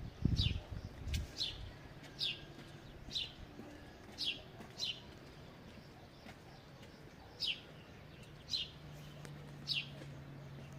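A bird repeating a single short, high chirp that drops in pitch, roughly once a second with some longer gaps. Low thumps sound in the first second or so.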